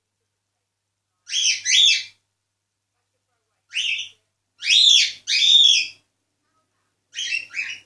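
Cockatiel calling in short, chirpy whistled notes, in four bursts of one or two notes each, spaced a second or two apart.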